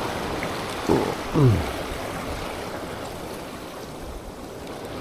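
Steady rush of water and small waves, with a brief falling voice-like sound about a second in.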